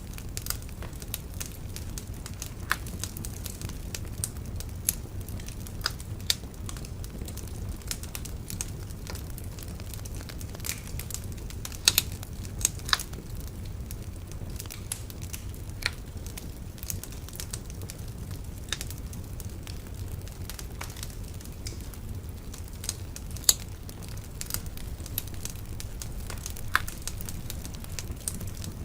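Bonfire crackling: irregular sharp snaps and pops of burning wood, a few much louder than the rest, over a steady low rumble of the flames.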